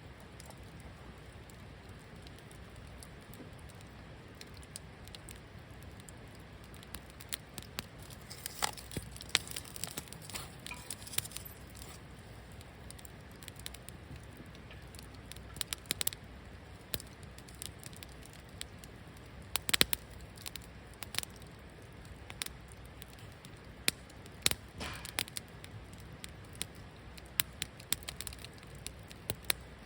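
Wood campfire crackling, with sharp pops at irregular intervals that come more often after the first several seconds.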